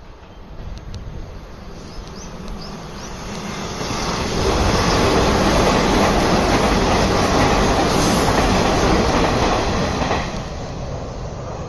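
A train passing close by, running on the rails. The noise builds over the first few seconds, is loudest for about six seconds, and falls away near the end.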